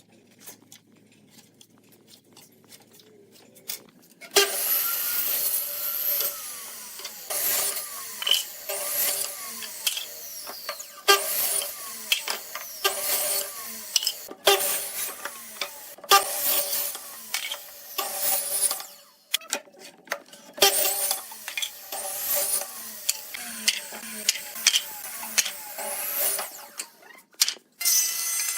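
Wood being cut or shaped with a tool in repeated strokes, about one a second, starting about four seconds in after a near-quiet opening.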